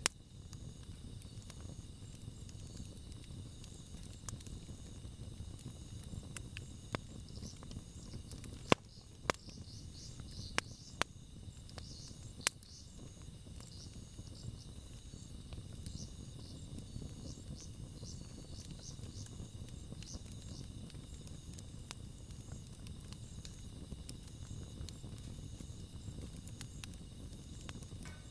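Wood campfire burning with a low, steady rumble and sharp pops and crackles, a cluster of about six in the middle. Insects chirp steadily in the background.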